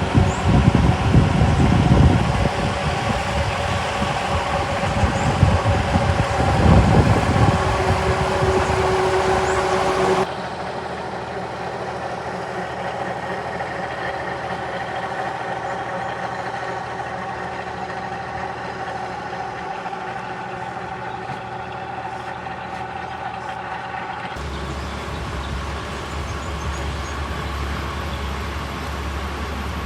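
Boat engine running steadily, with an uneven low rumble over it for the first third. The sound changes abruptly about ten seconds in and again near the end.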